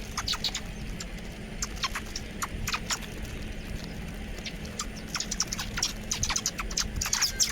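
Small birds chirping, many short, high, sharp chirps from several birds, growing busier and louder over the last couple of seconds, over a steady low hum.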